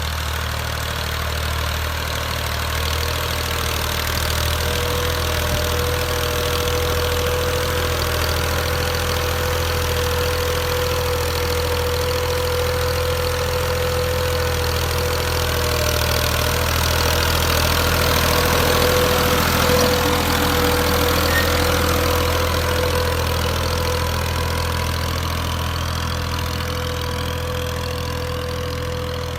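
Massey Ferguson 240 tractor's three-cylinder diesel engine idling steadily, with a constant tone over the low engine note; it grows a little louder around the middle.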